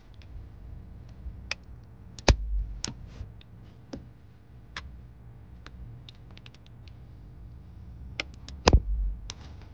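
Hand staple gun firing staples through upholstery fabric: two loud snaps with a low thump, about two seconds in and near the end, with fainter clicks and taps between.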